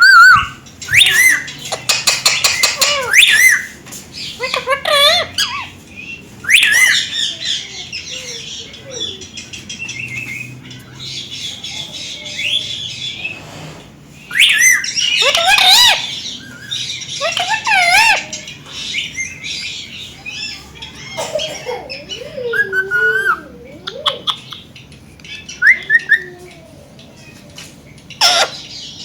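Several Indian ringneck parakeets calling: loud, harsh, high-pitched squawks come in bouts near the start, around the middle and shortly before the end, with quieter chatter between. A few lower, wavering, talk-like calls come in the later part.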